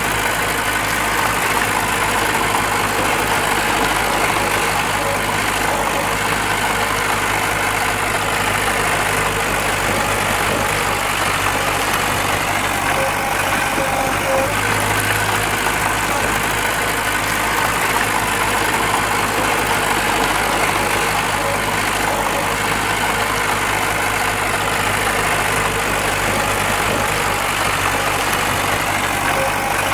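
Heavy earthmoving machinery's diesel engine running steadily, a continuous low engine drone with no distinct impacts.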